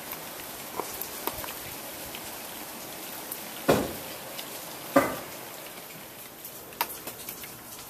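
Steady rain falling, with scattered drops ticking. Two louder short knocks come about a second apart midway through.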